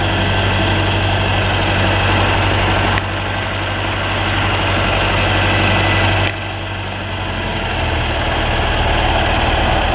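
Engine of road-repair machinery idling with a steady low hum. The sound changes abruptly twice, about three and six seconds in, a little quieter after each change.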